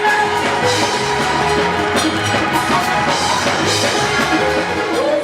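Worship band music: a drum kit keeping a beat under sustained held chords, with no singing.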